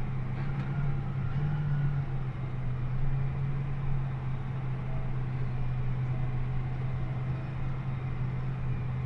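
John Deere 8400R tractor's six-cylinder diesel engine running at a steady drone while driving, with a slight brief rise in engine pitch about a second and a half in.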